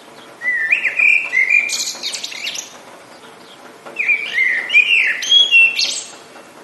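A songbird singing two phrases of about two seconds each, separated by a short pause; each phrase is made of quick sweeping whistled notes followed by higher buzzy notes.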